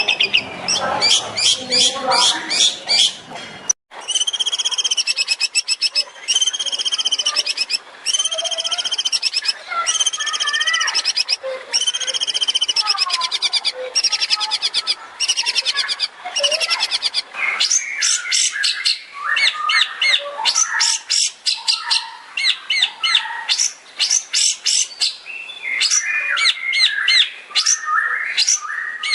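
Long-tailed shrike (cendet) singing loudly. It repeats a high, rapid-trilled phrase about once a second, then breaks into a fast run of quick, varied chattering notes. A low background hum cuts off suddenly about four seconds in.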